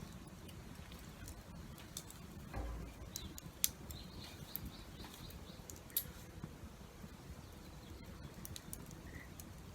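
Wood campfire crackling, with irregular sharp pops and snaps scattered through, over a faint steady hiss of rain. A short dull thud comes about two and a half seconds in.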